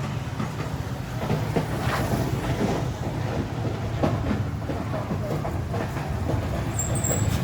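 Motorcycle engine running steadily while riding, with a low, even rumble of engine and road noise.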